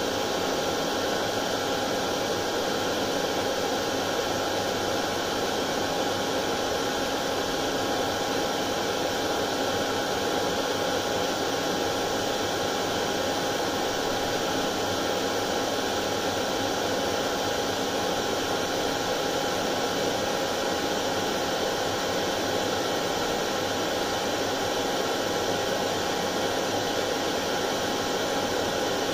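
Hair dryer running steadily: an even blowing hiss with a faint constant whine, unchanging throughout.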